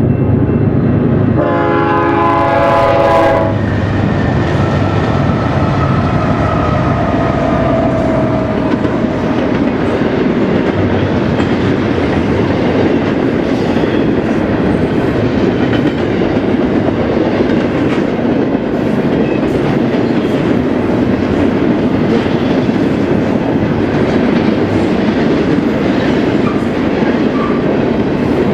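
A diesel freight locomotive's multi-tone air horn sounds one blast of about two seconds, starting a second and a half in, then the train runs past with a loud, steady rumble.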